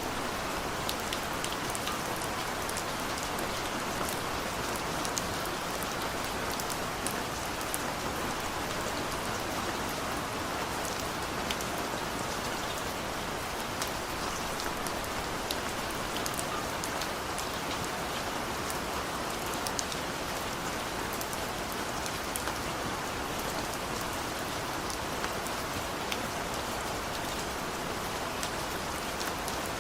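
Steady rainfall, a constant hiss with scattered sharper ticks of individual drops hitting a surface.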